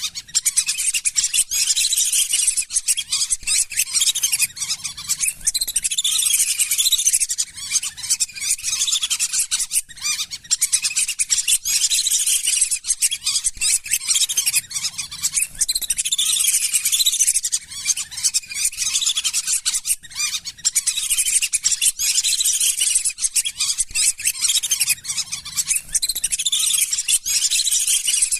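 A flock of lesser whistling ducks calling without a break: many high whistles and chattering notes overlapping, with only brief dips.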